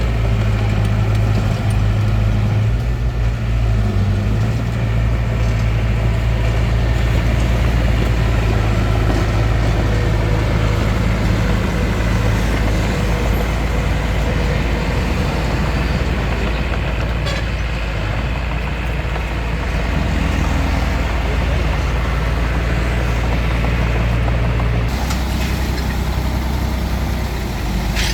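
Small bulldozer's diesel engine running with a steady low drone while it works. About three-quarters of the way through, the sound changes abruptly: the low hum shifts and more hiss comes in.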